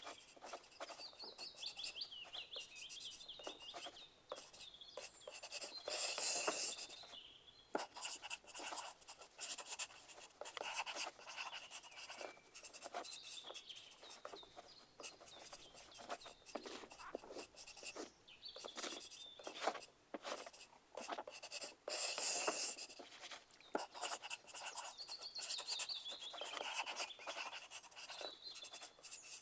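Pencils scratching on paper in a steady patter of short strokes, as in an exam room full of people writing, with two louder, longer scratching passes about six seconds in and again past twenty seconds. Faint bird chirps come and go in the background.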